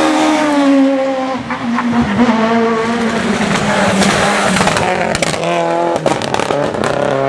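Rally car engine at full noise on a stage, its pitch dropping as it lifts off, then climbing again through the revs, with a few sharp cracks about five seconds in before it rises again near the end.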